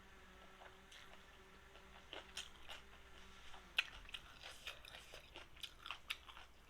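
A person chewing and biting food with small, quiet mouth clicks and smacks that grow more frequent from about two seconds in, under a faint steady hum that stops about halfway.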